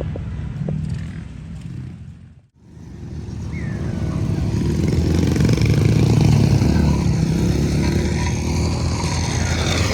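Motorcycle engine running, fading out about two and a half seconds in; a motorcycle engine sound then fades back up and runs steadily.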